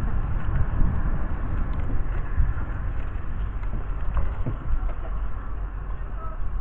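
Steady low rumble of a narrow-gauge railway coach moving slowly along a station platform, heard from an open window, with a few light knocks about four seconds in.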